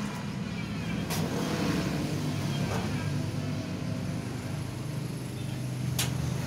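Steady low motor hum, with two sharp clicks about five seconds apart.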